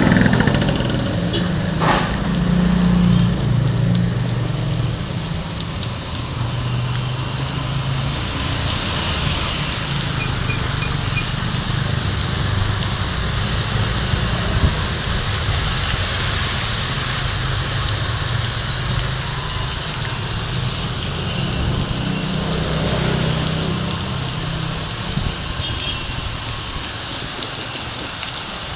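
Heavy rain pouring down, with motor vehicle engines running close by under it, steady throughout.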